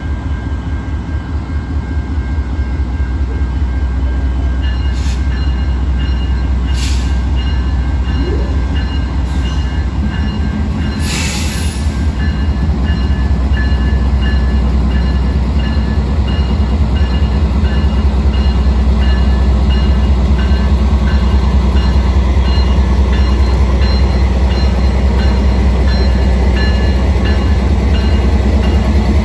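Norfolk Southern freight train with several diesel-electric locomotives passing, its engines rumbling heavily and pulsing steadily, growing gradually louder. Some brief hissing bursts come in the first half, along with faint steady ringing tones from the train.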